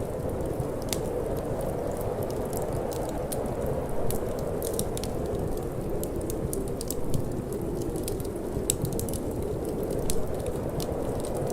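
Wood fire crackling in a fireplace, with frequent short sharp pops and snaps, over a steady low rush of wind.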